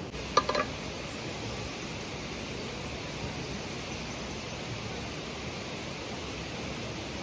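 Steady rushing background noise with no pitch, with a short ringing clink, like metal or crockery being knocked, about half a second in.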